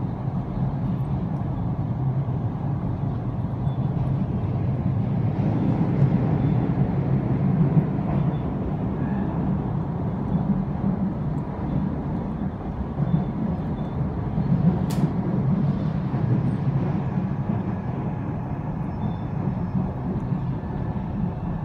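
DART electric commuter train running along the track, heard from inside the passenger carriage as a steady low rumble. A single sharp click sounds just past the middle.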